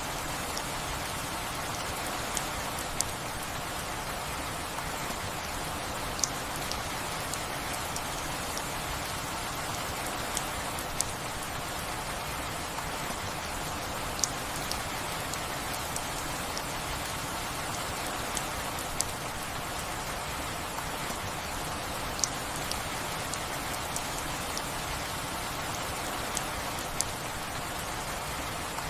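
Steady rainfall with a constant hiss, and single louder drops striking sharply every second or two.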